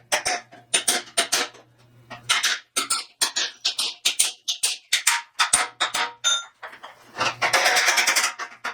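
Steel bumper being hammered back into shape: a string of sharp metal strikes at an uneven pace, one ringing briefly, then a fast run of strikes near the end.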